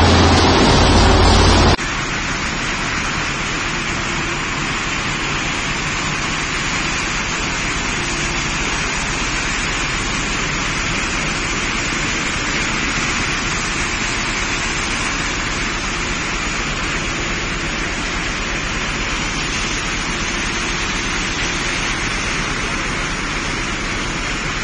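Screw sand washer running: a steady rush of water churning through wet sand. A louder opening stretch with a low machine hum cuts off abruptly about two seconds in.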